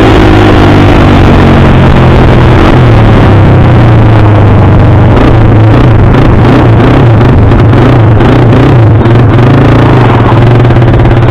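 Dirt bike engine running, its pitch falling and then wavering up and down as the throttle is worked. It is very loud, close to overloading the recording.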